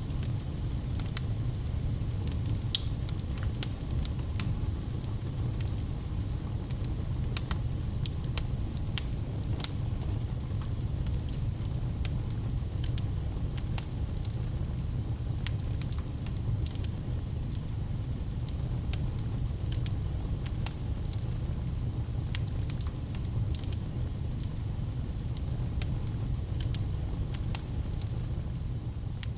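Wood campfire burning: the fire runs as a steady low rumble, with many sharp, irregular crackles and pops of burning wood.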